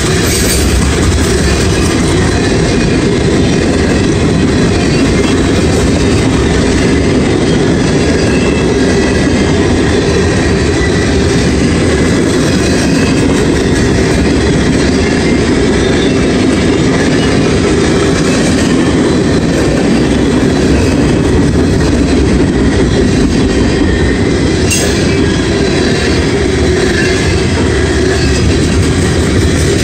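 CSX mixed manifest freight train's cars rolling steadily past a grade crossing: the continuous rumble and clatter of steel wheels on the rails.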